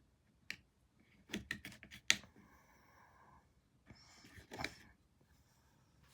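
A few light clicks and taps: one about half a second in, a quick run of them between one and two seconds in, and another run shortly after four seconds.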